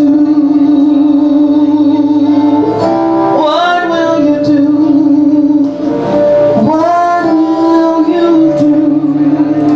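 A female singer holding long, sustained notes with vibrato and sliding between pitches, over musical accompaniment.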